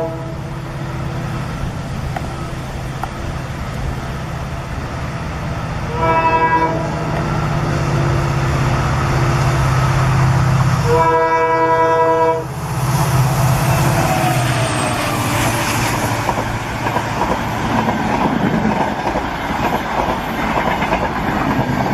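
A train running, with a steady low hum, and its horn sounding twice: briefly about six seconds in, then for about a second and a half near the middle. After the second blast the running noise grows rougher and noisier.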